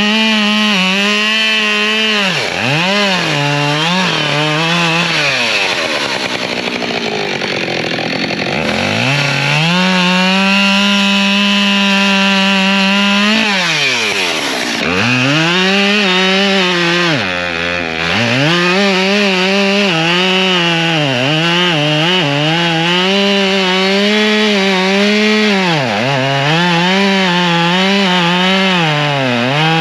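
Two-stroke chainsaw running at full throttle while cutting firewood. Its pitch sags under load in the cuts and drops sharply several times, around 3, 14, 17 and 26 seconds in, before revving back up. The longest steady high stretch comes about a third of the way through.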